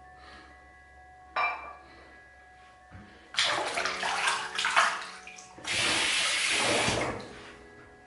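Tap water running into a sink, with splashing from about three seconds in and a steady stream of running water for about a second and a half near the end.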